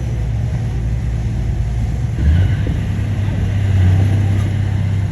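Bulldozer's diesel engine running steadily, then revving up about two seconds in and holding at higher revs.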